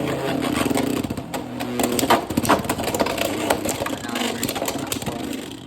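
Beyblade X tops spinning and colliding in a plastic stadium: a steady whir with many sharp clacks as they hit each other and the walls. The sound drops off abruptly at the end as the battle finishes.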